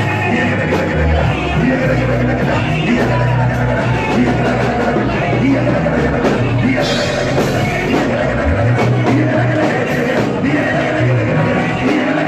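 Band playing worship music with a strong bass line and drums, and voices singing over it.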